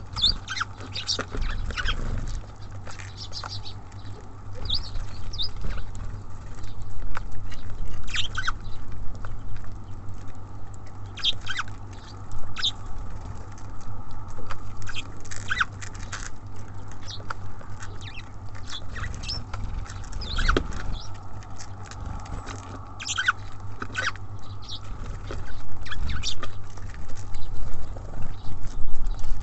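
Small songbirds at a feeder: a busy, irregular run of sharp taps and pecks as they land and pick at seed, with a few short high chirps.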